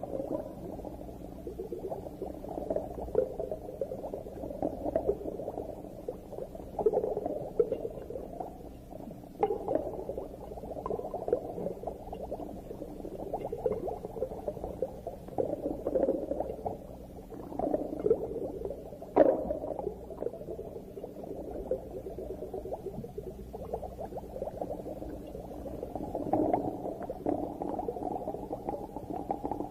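Underwater reef sound: continuous muffled bubbling and crackling, with irregular louder bubble bursts and clicks, the strongest about two-thirds of the way through.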